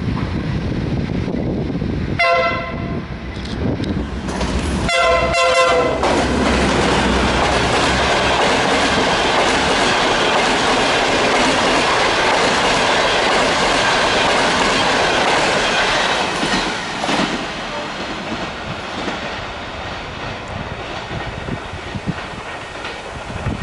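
A diesel locomotive sounds its horn twice as the passenger train approaches, a short blast then a longer one. The locomotive and coaches then pass close by with loud wheel-on-rail rumble, which fades as the train moves away.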